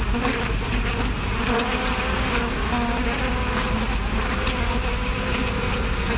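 Swarm of bees buzzing: a steady, dense drone that cuts off abruptly at the end.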